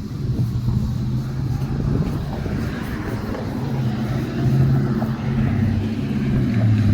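An engine running, a steady low hum that shifts a little in pitch and grows louder in the second half.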